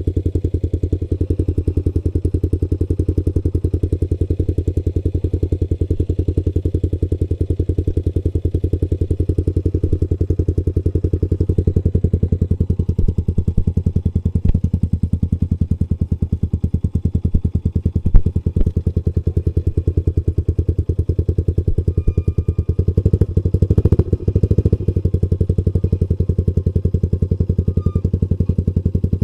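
Trail motorcycle engine running steadily at low revs, an even rapid firing pulse. A sharp knock comes about eighteen seconds in, and another brief clatter a few seconds later.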